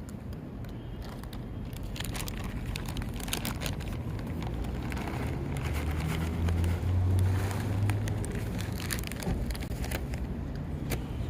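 Low rumble of a passing vehicle, loudest about seven seconds in, over outdoor background noise, with a run of close crackling clicks.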